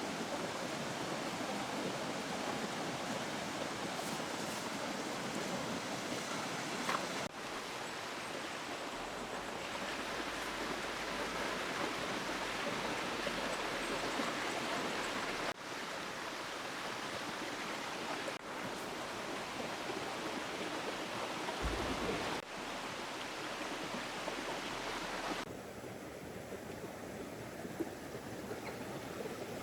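Steady rush of a flowing river. It changes abruptly a few times and turns quieter and duller near the end.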